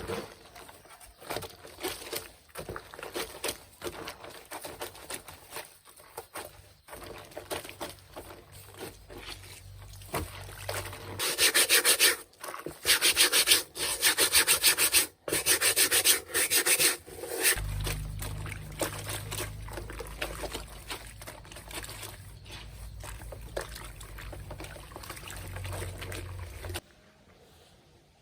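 Rapid, repeated scraping strokes by hand, loudest in the middle, with a low hum joining in the second half and cutting off suddenly near the end.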